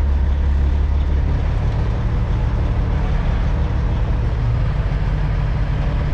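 Semi truck's diesel engine running steadily at low speed while the rig is manoeuvred back and forth. Its note rises a little about four and a half seconds in.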